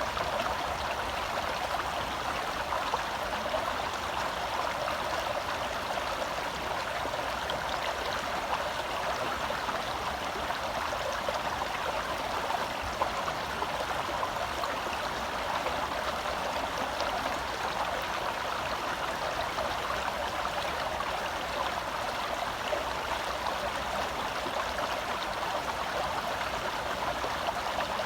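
Gentle forest stream flowing: a steady, even rush and babble of running water.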